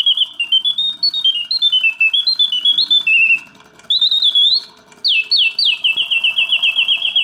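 Vintage pre-Reuge singing birdcage automaton singing in full, strong voice: its bellows-driven whistle plays warbling phrases of stepping, sliding notes. It breaks off briefly about three and a half seconds in, then gives three quick downward sweeps and runs into a fast, even trill.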